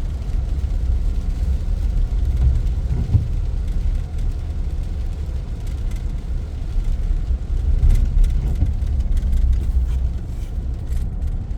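Steady engine and road rumble heard inside a pickup truck's cab while driving.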